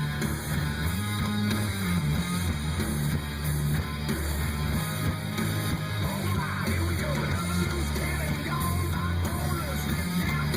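Rock music with guitar played loud through a truck's bass-heavy stereo system, deep bass notes stepping between pitches and dominating the sound.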